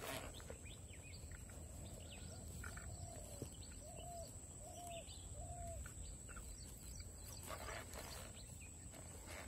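Faint riverside ambience with a bird calling: a run of four short, low, arched notes in the middle, with a few faint higher chirps around them. There is a brief soft rustle near the end.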